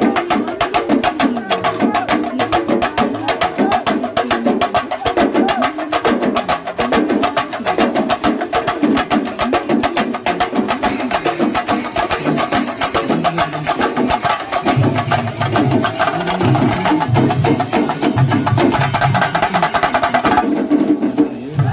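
Kerala temple-festival melam: drums beaten in a fast, dense rhythm with a wavering melody line over them. About halfway through a brighter, hissing layer joins in, and deep low beats come in near the end.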